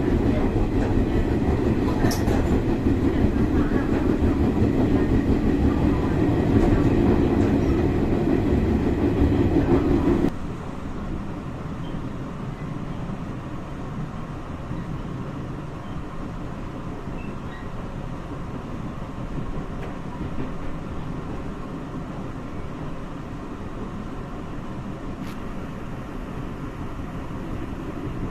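A train passing close by on the tracks, loud with a low rumble for about ten seconds, then dropping suddenly to a quieter steady rumble.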